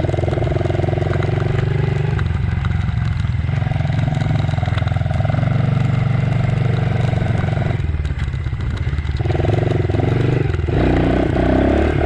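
Dirt bike engine running steadily while being ridden, growing a little louder about eleven seconds in.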